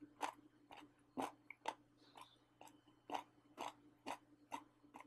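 A person chewing pork rib with soft, edible cartilage bone, crunching at an even pace of about two bites a second.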